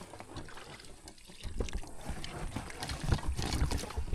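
Water sloshing around a small boat, with scattered knocks and low thuds from about a second and a half in.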